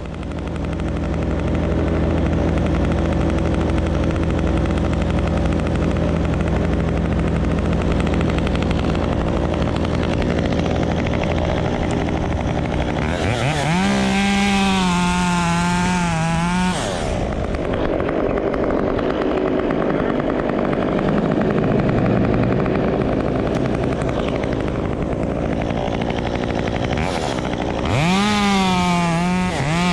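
Gas chainsaw running steadily at a lower speed, then revved up to full throttle twice, once about halfway through and again near the end, holding the high whine for a few seconds each time.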